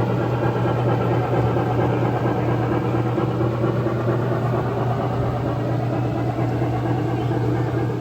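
Model train running on a layout, with a steady low engine-like hum and rumble that cuts off near the end.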